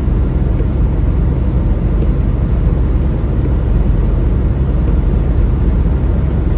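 Semi truck cab interior while driving: a steady low rumble of engine and road noise.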